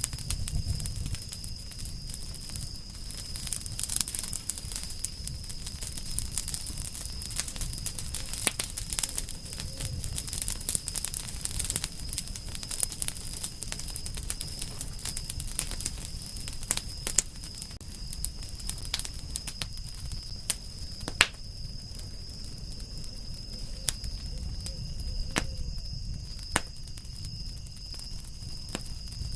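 Campfire of burning firewood crackling, with irregular sharp pops and snaps over a low steady rumble of the flames; a few louder pops in the second half.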